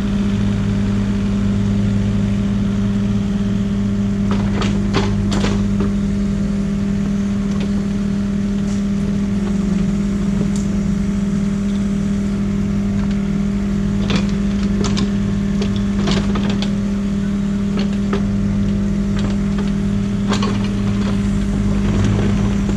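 Excavator engine running steadily under load, with a few short knocks and clanks from the machine's work at scattered moments.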